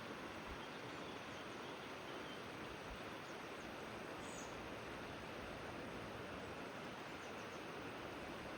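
Steady rushing of flowing river water, with a few faint, brief high chirps from a bird.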